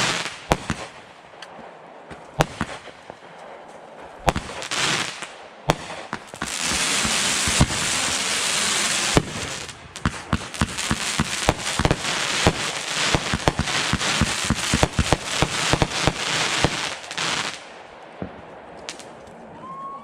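Fireworks going off: scattered sharp bangs, then a dense crackling barrage of rapid pops from about six seconds in that lasts around eleven seconds before thinning out near the end.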